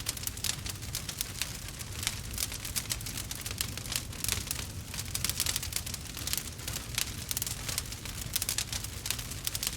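Burning wood fire crackling and popping: dense, irregular sharp snaps over a steady low rumble of the flames.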